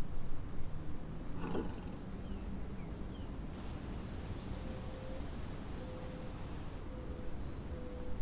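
Insects trilling steadily in one high, unbroken tone, with a few faint short chirps over it.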